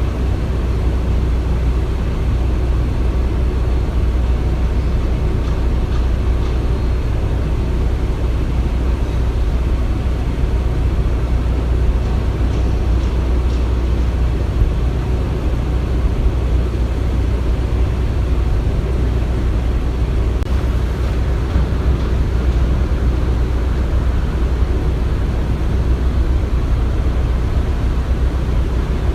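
Construction-site ambience: a steady, unchanging low rumble of heavy machinery running, with no distinct knocks or other separate events.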